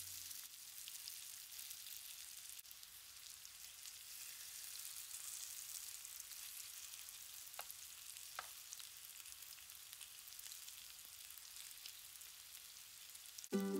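Cabbage and onion fritters frying in shallow oil in a nonstick pan, a faint steady sizzle with fine crackling. A metal spatula touches the pan briefly twice about halfway through, and background music comes in at the very end.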